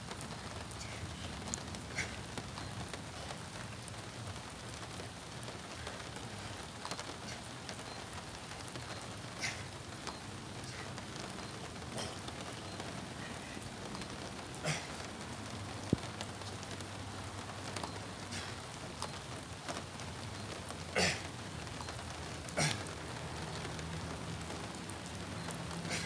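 Steady rain falling on pavement, with scattered louder drops and sharp taps.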